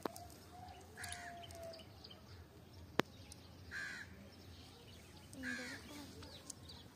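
Three short, harsh bird calls, about one, four and five and a half seconds in, over quiet outdoor background, with a single sharp click about three seconds in.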